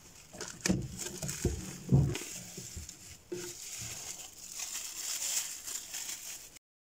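Crinkling, rustling handling noises with a few knocks, the loudest about one and two seconds in, cutting off abruptly near the end.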